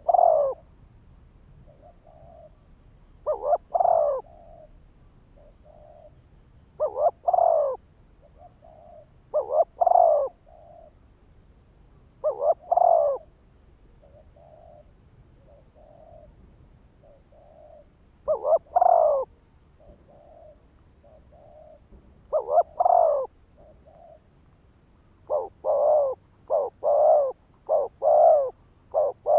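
Spotted dove cooing: a loud two-part coo phrase every three to four seconds, with softer single coos between, then near the end a faster run of loud coos about one a second.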